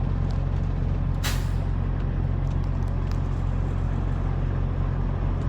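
Semi truck's diesel engine running steadily, heard from the cab, with a short hiss of air about a second in, like an air brake releasing.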